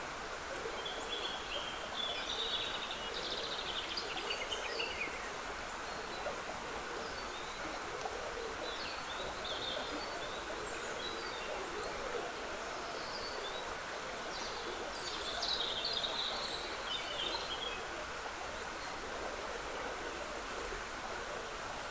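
A woodland stream trickling steadily, with songbirds singing over it at intervals, the singing busiest a couple of seconds in and again about fifteen seconds in.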